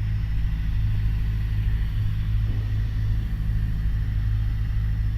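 Steady drone of a Piper Warrior's four-cylinder Lycoming engine and propeller in flight, heard inside the cabin.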